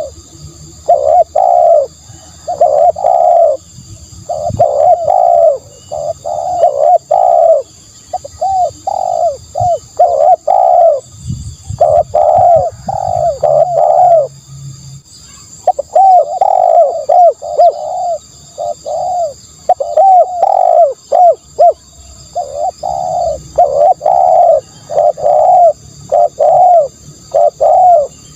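Spotted dove cooing: phrase after phrase of short, rapid coos, broken by a few short pauses.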